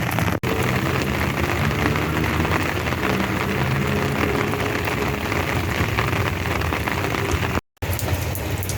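Steady rain falling and pattering on wet ground, an even hiss of rain.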